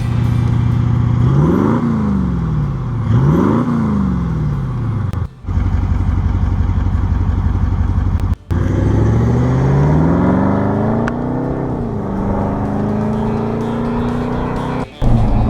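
A Toyota Land Cruiser VDJ200 4.5-litre twin-turbo diesel V8 is heard through a 3-inch stainless turbo-back exhaust. It idles, is blipped twice in quick succession, then revs up more slowly and holds at a higher steady speed.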